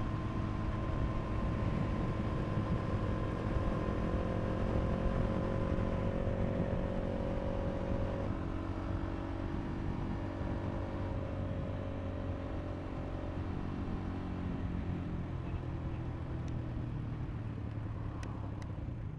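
KTM RC390 single-cylinder engine running at a steady cruise under riding wind noise, its pitch stepping to a new note about eight seconds in.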